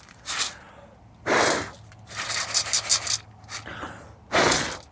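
A person blowing hard puffs of breath into a chicken's food bowl to clear straw out of it: several separate puffs, with a quick run of short puffs about two seconds in.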